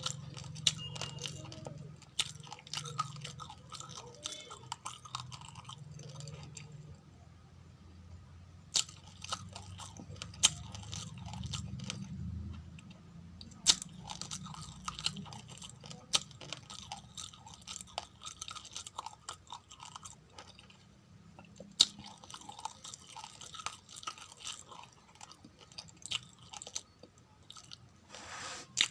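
Raw, uncooked rice being chewed close to the microphone: steady crunching with many sharp cracks of grains breaking, easing off briefly twice.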